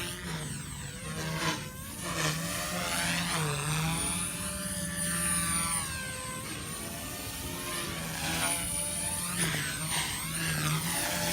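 Electric RC helicopter (OXY 2) in flight: its motor and rotor whine sweeps up and down in pitch every second or two as it swoops back and forth, over a steady high-pitched whine.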